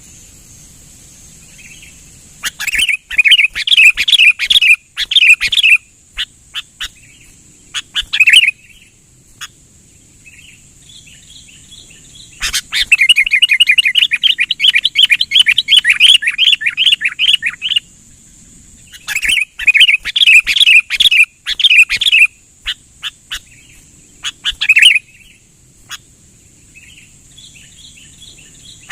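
Sooty-headed bulbul (kutilang) singing insistently: loud runs of quick, repeated chirping notes a few seconds long, three main runs with scattered single calls between them. It is the kind of persistent call used as a lure for trapping bulbuls.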